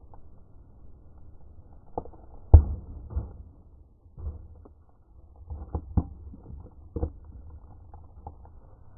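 A dozen or so sharp knocks and clanks at irregular intervals, the loudest about two and a half seconds in, with a cluster of them around six seconds and another at seven.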